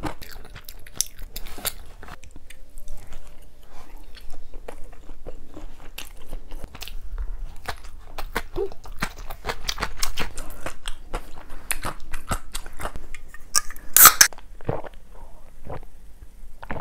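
Close-up eating sounds: a mouthful of tteokbokki and fried snacks being chewed and crunched, with many small wet mouth clicks. About three-quarters of the way through comes one short, sharp, loud burst, louder than anything else.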